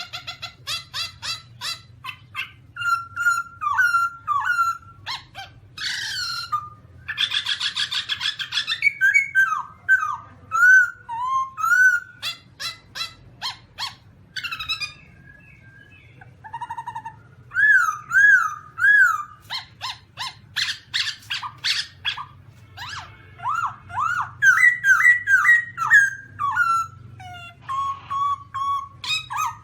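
Black-throated laughingthrush calling: a long, varied series of short sliding whistled notes and rapid chattering runs. A harsh, rasping burst comes about six to nine seconds in.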